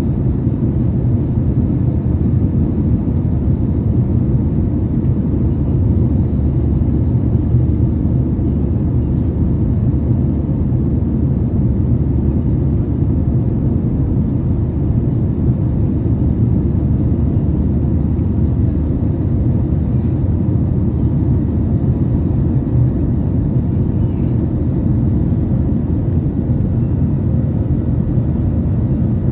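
Steady cabin noise of an airliner in flight: an even, unchanging low rumble of engines and airflow.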